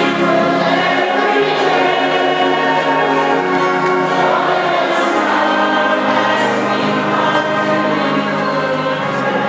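Congregation singing a hymn together, many voices holding long notes over a steady low accompaniment.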